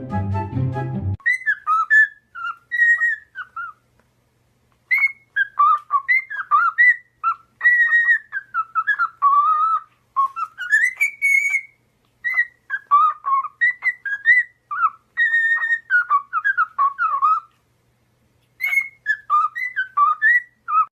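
A bird whistling in quick, sliding, warbling phrases with two short pauses, after music that cuts off about a second in.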